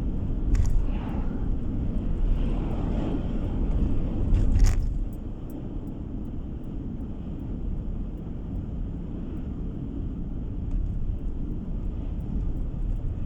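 Car driving on the road: a steady low rumble of engine and tyre noise, with two sharp knocks, one just after the start and one about four and a half seconds in.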